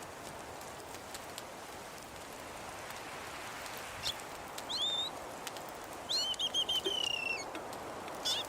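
A small songbird calls: a couple of short chirps about halfway through, then a quick trill of repeated notes falling slightly in pitch, and one more chirp near the end. Under it is a steady hiss with faint scattered ticks.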